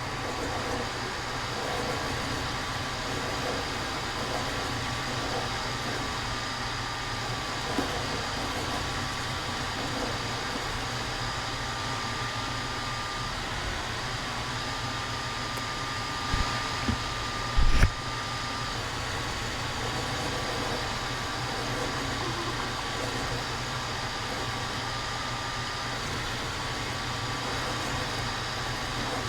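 Steady hum of a running machine with a held whine that wavers slightly in pitch. A few short knocks come about two-thirds of the way through.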